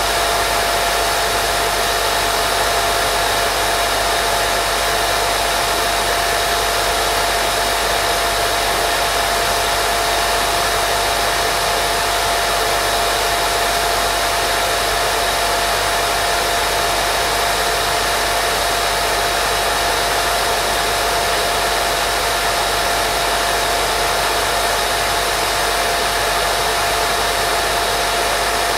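Steady white noise for putting a baby to sleep: a constant, unchanging hiss with a thin steady tone running through it.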